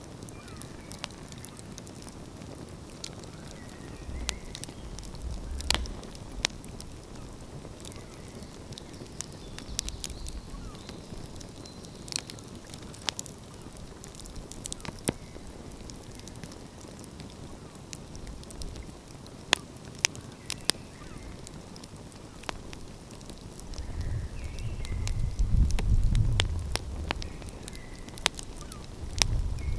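Outdoor wood fire crackling, with sharp pops at irregular intervals over a steady low hiss. A low rumble swells and fades about 24 seconds in.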